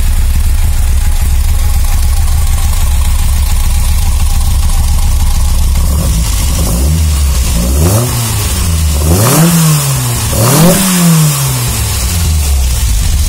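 Yamaha R1 inline-four motorcycle engine on Mikuni carburettors idling steadily, then revved four times about halfway through with the throttle worked by hand at the carburettors, each blip climbing higher than the last, before settling back to idle.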